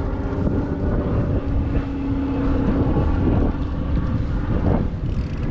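Wind rumbling on the microphone during a bike ride, over a steady low drone.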